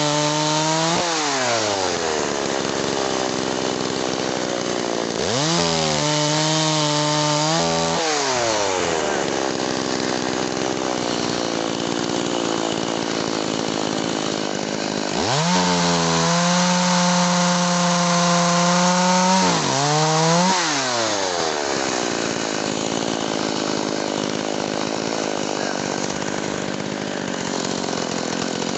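Two-stroke chainsaw revving up to full throttle and dropping back to idle: a rev ending just after the start, a short one about six seconds in, a longer one from about fifteen to twenty-one seconds, and another starting near the end, while cutting a small pine into firewood lengths.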